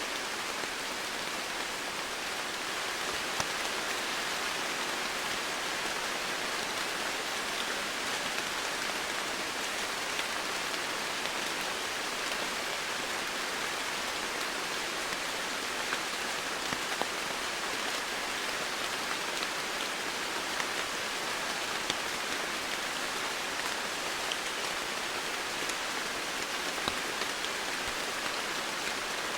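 Steady rain falling on foliage, an even hiss with scattered drop ticks that does not change.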